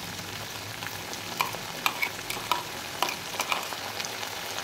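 Sliced onions and pieces of fish frying in oil in a metal wok: a steady sizzle with scattered pops and crackles of spitting oil.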